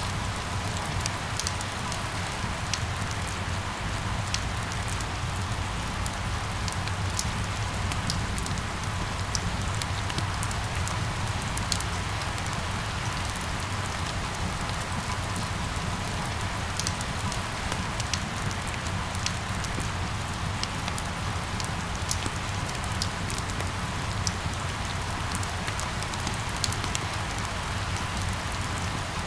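Steady rain falling, with many scattered sharp drop ticks over a low, steady rumble.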